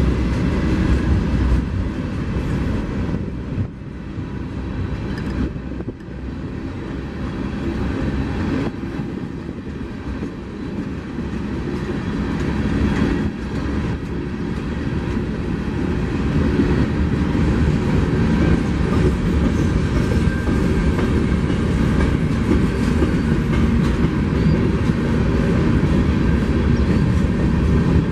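Train rolling past, a steady rumbling noise of wheels on rail that dips a few seconds in and grows louder after about fifteen seconds.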